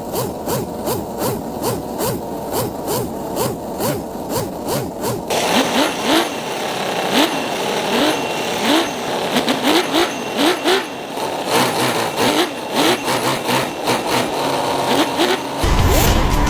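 Engine revving in quick repeated blips, about two a second, its pitch rising on each blip. Shortly before the end a louder, deeper rumble comes in.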